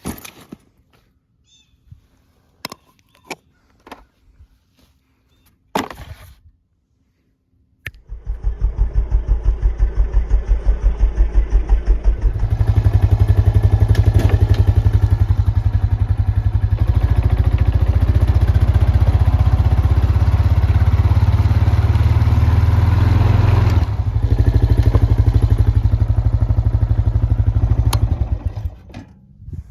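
A few knocks, then about eight seconds in an ATV engine (a Honda Foreman 450 single-cylinder) starts and runs with a fast, even putter. It picks up and runs louder from about twelve seconds in, then dies down near the end.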